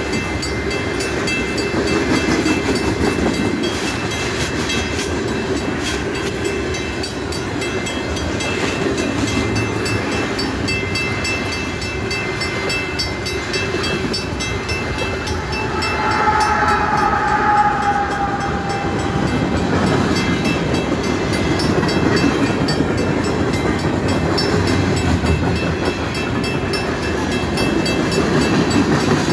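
Freight train of tank cars and gondolas rolling past at speed, with a steady rumble and clatter of wheels on the rails. A brief high tone rises over it a little past the middle.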